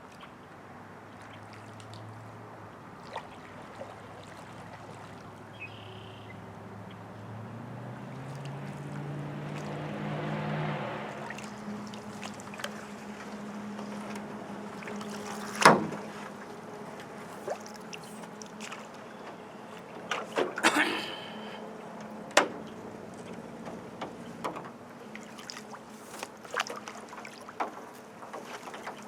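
Paddling an aluminium canoe: water noise and sharp knocks of the paddle and gear against the metal hull, the loudest about halfway through and a quick cluster a few seconds later. A low hum rises in pitch through the first third and fades out.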